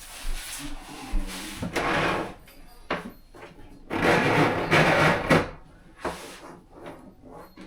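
Irregular knocks and scraping from installation work on a kitchen dishwasher and its cabinets, with a longer, louder scraping stretch about four seconds in.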